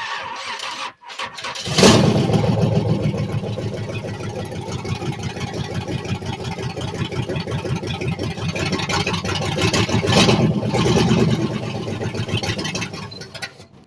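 Race car engine turning over on its starter for about twelve seconds without catching, then cut off abruptly. The car has not been started for a while.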